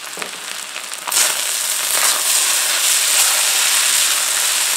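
Fried rice with egg, peas and carrots sizzling in a hot wok as it is stir-fried with a spatula, a steady crackling sizzle that gets louder about a second in.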